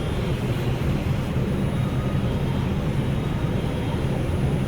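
Steady low hum and rumble inside an R142 subway car, with the doors closed.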